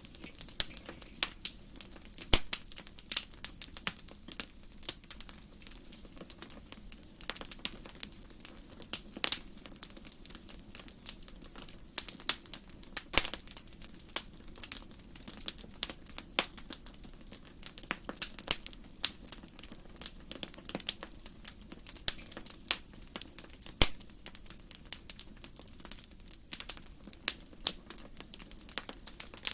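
Wood fire burning in a fireplace: frequent irregular crackles and sharp pops over a low steady hiss.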